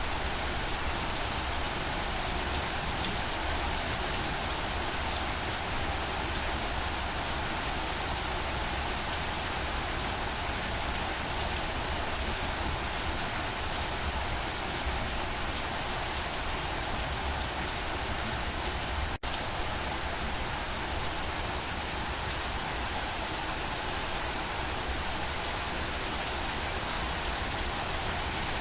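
Steady rain falling, an even hiss of many drops with no pause. There is a split-second dropout about two-thirds of the way through.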